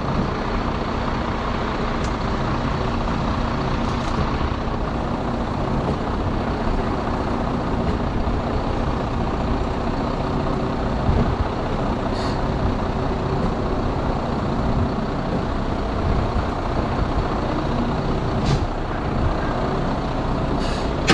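Heavy recovery truck's diesel engine running steadily under load, driving the winch that drags a 26-tonne lorry up out of a ditch, with a few short hisses of air.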